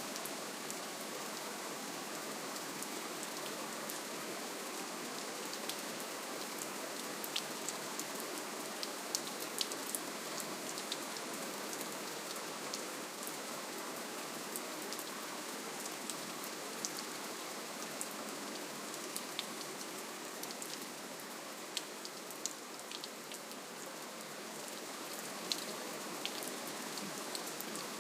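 Steady, gentle rainfall: a soft, even hiss with scattered single drops ticking sharply on top.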